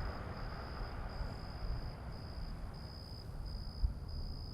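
Crickets chirping steadily, a high chirping with short regular breaks over a low rumble and hiss: a stock crickets sound effect marking a dull, awkward silence.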